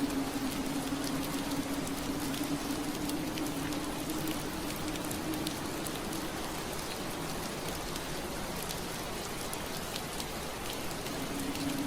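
Steady rain on a window pane: an even hiss with scattered drop ticks. A low steady hum sits under it, fading out about halfway through and returning near the end.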